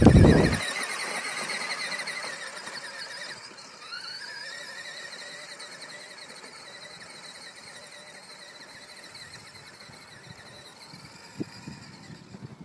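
High-pitched whine of small motorbike engines revving, the pitch wavering, with a second one rising as it accelerates about four seconds in, then fading to a faint hiss. A brief loud rumble comes at the very start.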